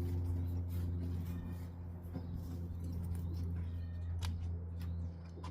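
A steady low hum with a few sharp clicks and faint short chirps over it.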